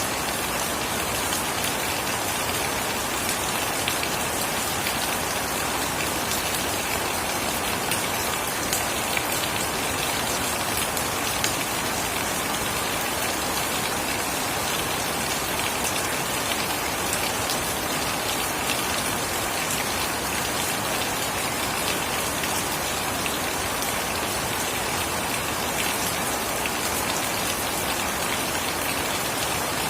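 Steady heavy rain falling on surfaces, with fine close drop patter.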